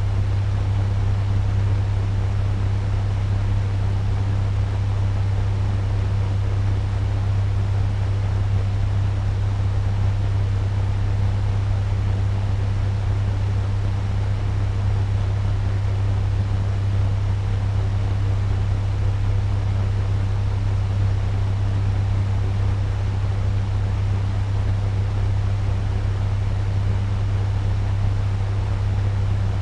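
Turbo-style electric fan running steadily at medium speed: an even rush of moving air over a strong low motor hum.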